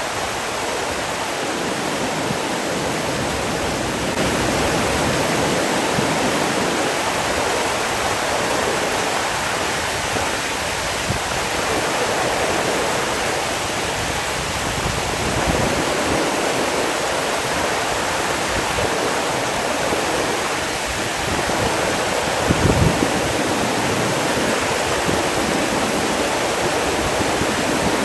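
Steady rush of flowing water, an even full-range noise, with a few brief low thumps about three quarters of the way through.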